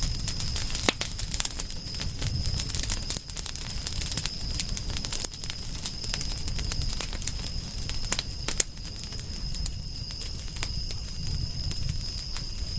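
Wood campfire crackling and popping, with many sharp snaps coming irregularly over a low rumble. A steady high-pitched tone runs underneath throughout.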